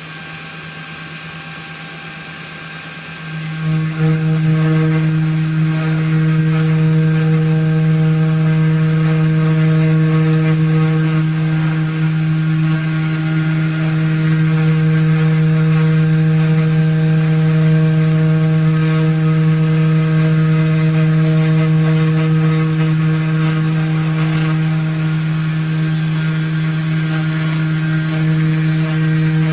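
CNC 1610 mini router's spindle motor running at a steady speed, an even hum of one pitch that jumps louder about three and a half seconds in and then holds.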